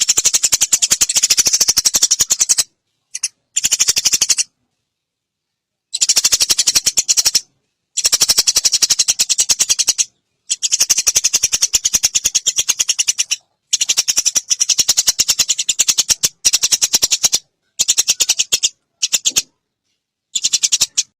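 A songbird's very rapid, high-pitched chattering trill, given in repeated phrases of one to three seconds with short silent gaps between them.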